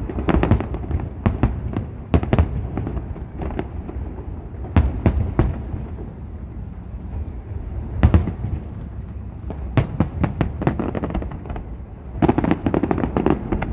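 Aerial firework shells bursting in an irregular string of sharp bangs, several coming in quick clusters, with a dense volley near the end.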